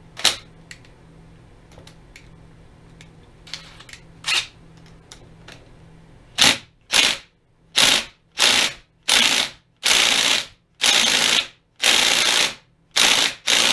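Impact wrench fired in about nine short, loud bursts through the second half, hammering at a stuck fastener to break it loose. A few light clicks come before it.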